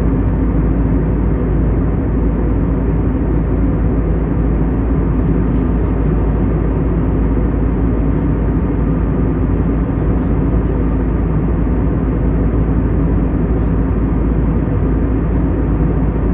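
Steady cabin noise of an airliner at cruise altitude: engine and airflow noise heard from a window seat, a constant low rumble with a faint hum, unchanging throughout.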